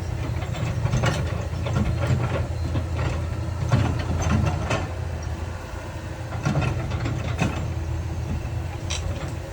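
Heavy diesel construction machinery running steadily, with irregular sharp metallic clanks and knocks over the engine hum, about eight in all, the loudest just under four seconds in.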